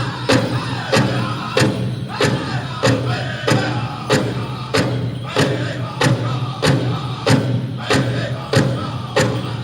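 Powwow drum group singing a chicken dance song: several voices over one large hand drum struck in a steady beat, about three strikes every two seconds.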